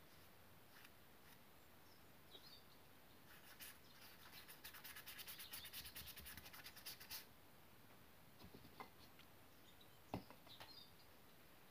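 Faint rapid scratching of a pen nib on paper in quick hatching strokes, about ten a second for roughly four seconds in the middle. A few faint bird chirps come near the end.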